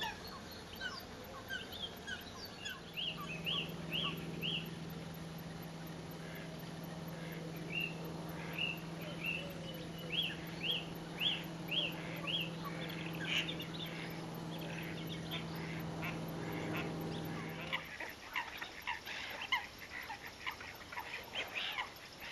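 Birds calling in repeated short series of sharp notes, outdoors in the open. Under them a steady low hum starts about three seconds in and cuts out a few seconds before the end.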